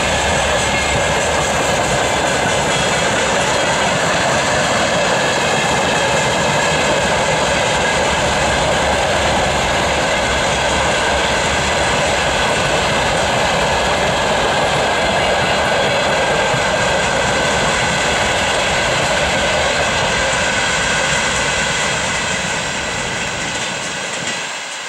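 Freight train wagons, tank cars and open gondolas, rolling past on the rails: a loud, steady noise of wheels on track with a few faint steady high tones. It fades near the end as the last wagons move away.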